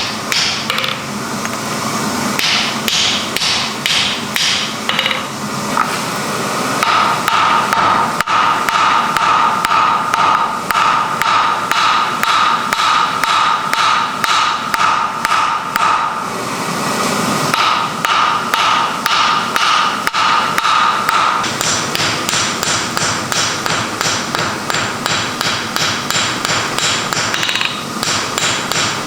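Rapid, evenly paced hammer blows forging iron, about three a second, with a steady metallic ring through the middle stretch.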